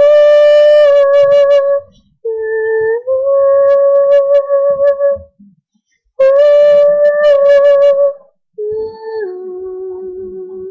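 A young woman's voice singing unaccompanied: four long held notes without clear words, each sustained one to three seconds with short silent breaths between, the last one stepping down in pitch.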